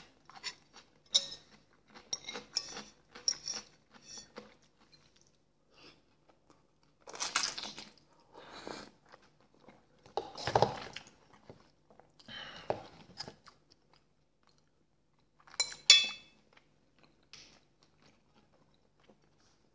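Close-up chewing of a pickled gherkin, with crisp wet crunches coming in irregular bursts that thin out over the last few seconds.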